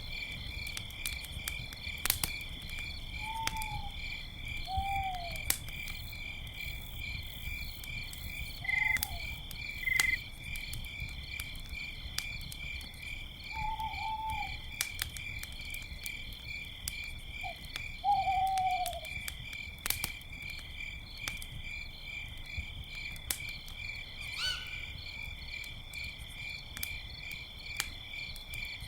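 Crickets trilling steadily in a fast pulsing chorus while an owl gives several short hoots that drop in pitch at the end, and a campfire crackles with scattered sharp pops.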